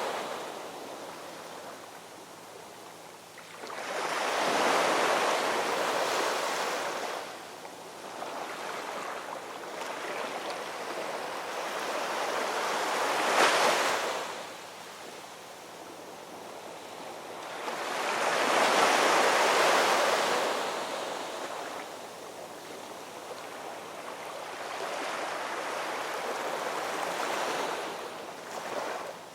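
Ocean waves breaking on a shore, the surf swelling and washing away in slow surges every several seconds, with a sharper crash about halfway through.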